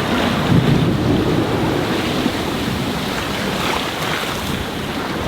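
Steady wind buffeting the microphone over the rush of waves and water along the hull of a sailboat running downwind in breaking seas.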